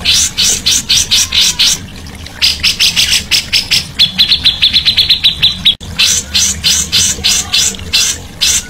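Songbird singing a fast run of sharp chirping notes, about five or six a second, broken in the middle by a quick even trill; the song cuts out for an instant about six seconds in and resumes.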